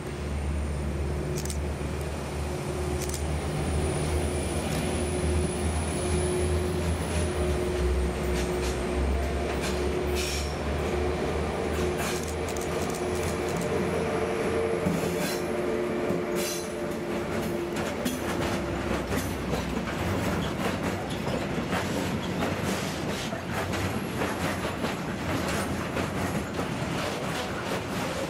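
DB Class 152 electric locomotive hauling a freight train past. First comes a steady hum with a few steady tones and a high thin whine. From about halfway, the wagons roll by with rapid, dense clicks of wheels over rail joints.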